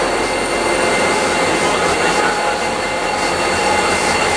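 Coaster commuter train passing close at speed: its diesel locomotive runs by with a loud, steady engine drone and several steady high whines over the rumble of the train on the rails.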